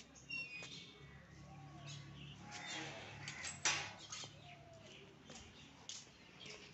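Faint bird chirps against light outdoor background, with one brief sharp noise about three and a half seconds in, the loudest moment.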